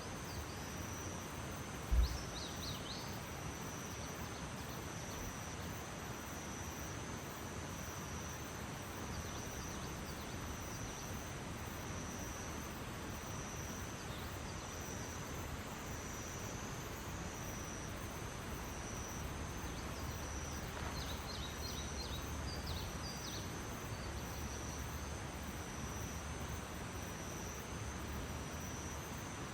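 Crickets keeping up a steady high trill over a soft hiss, with a few brief bird chirps about two seconds in and again about two-thirds of the way through. A single low thump about two seconds in.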